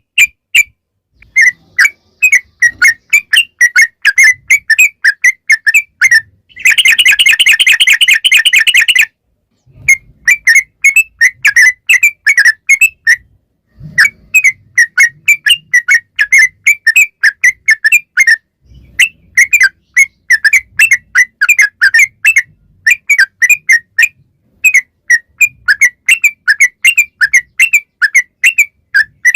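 Yellow-vented bulbul (trucukan) in full song: phrases of rapid, bubbly chirping notes a few seconds long, split by short pauses. About seven seconds in there is one dense rolling trill that lasts some two seconds.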